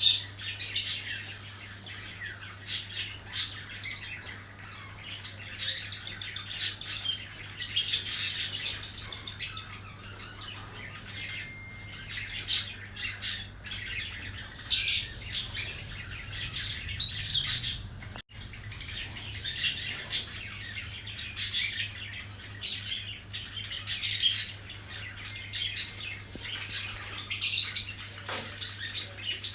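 Birds chirping and squawking in quick, irregular calls, over a steady low hum.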